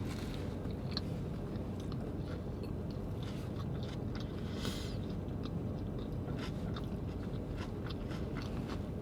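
A person chewing and biting food close to the microphone, with many small crisp mouth clicks and crunches over a steady low hum.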